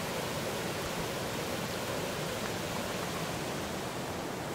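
Steady rush of water running over river rapids.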